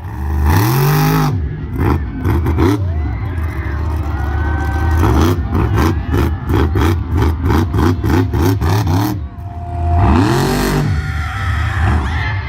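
Monster truck engine revving hard, its pitch sweeping up and falling back near the start and again near the end. In between comes a fast run of sharp pops.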